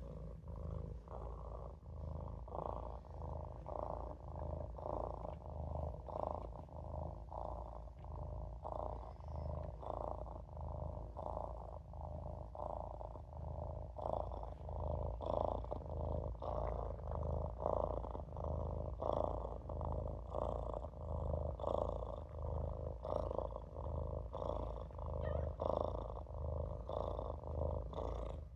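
Maine Coon kitten purring steadily and rhythmically, a continuous low rumble rising and falling with each breath.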